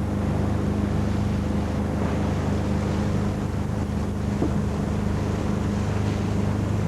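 An engine runs with a steady hum aboard a sailing yacht at sea, over a wash of wind and water.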